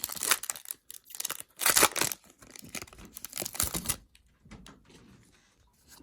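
A trading-card pack wrapper being torn open and crinkled by hand, in loud rustling bursts that die down to faint handling noise after about four seconds.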